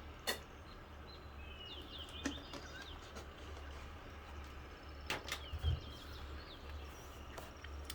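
Quiet pause over a steady low hum, with a few soft clicks and knocks from a drink of water being taken, and faint high chirps now and then.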